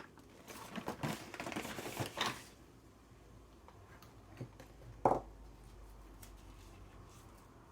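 Small ink bottles being handled and set down: a run of light clicks and rattles for about two seconds, then one sharper knock about five seconds in.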